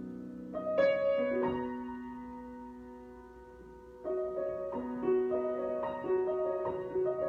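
Solo piano improvisation. A chord is struck about a second in and left to ring and die away, then from about four seconds in a gently rhythmic pattern of repeated chords begins.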